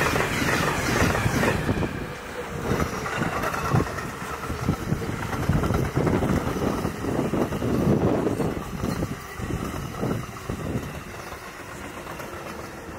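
A passenger train passing at speed, its wheels clattering over the rails with many irregular knocks. The hiss is strongest at the start, and the noise fades in the last few seconds as the train draws away.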